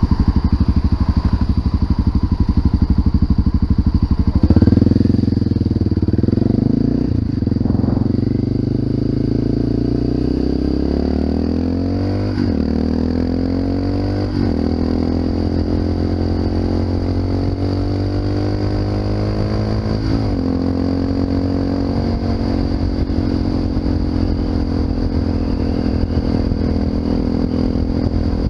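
Honda FMX 650's single-cylinder engine through an Arrow aftermarket exhaust, ridden. It runs steady at first, then pulls up through the gears with the pitch rising and brief dips at the shifts, and settles to a steady cruise for the last several seconds.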